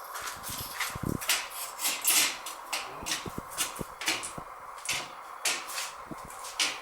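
A string of irregular clicks, taps and rustles from hands-on handling work, several a second, with a few sharper knocks.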